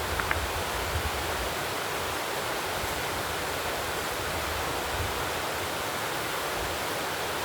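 Steady rushing noise, even and unbroken, with two faint clicks just after the start.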